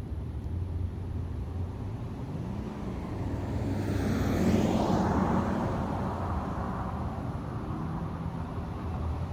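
BMW E30 coupe with a swapped-in S50 inline-six driving past, its sound swelling to a peak about halfway through and falling away as it passes. A steady low engine hum runs underneath.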